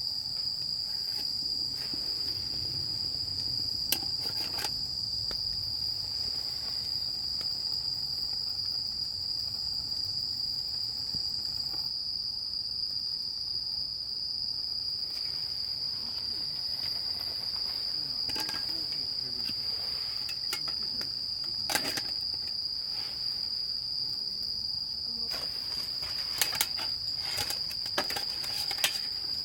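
Crickets chirping as one steady high-pitched trill, with a few sharp clicks scattered through, more of them near the end.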